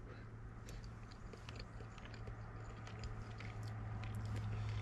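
A person chewing a mouthful of pan-fried trout with small wet mouth clicks, over a steady low hum.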